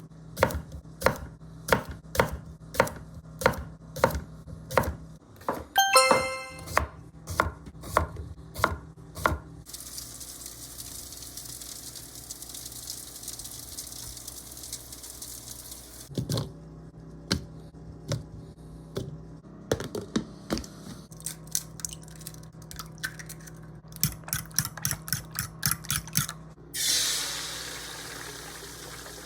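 Knife chopping on a cutting board in even strokes about two a second, with a ringing clink of a dish about six seconds in. Midway there is a steady hiss for several seconds, then more chopping that quickens. Near the end comes a loud burst of sizzling from a hot pan that fades.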